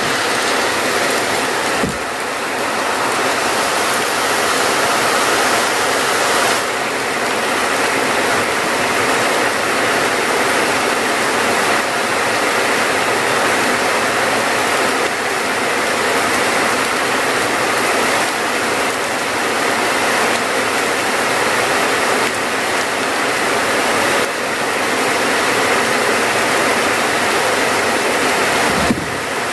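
Heavy rain falling steadily, a dense, even hiss with no single drops standing out, briefly dipping in level a few times.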